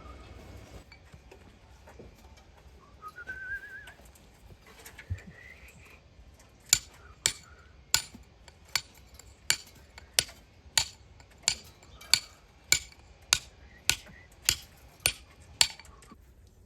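Hammer strikes at a steady pace, a sharp ringing clink a little under twice a second, about fifteen blows through the second half. Before them comes a short rising whistle.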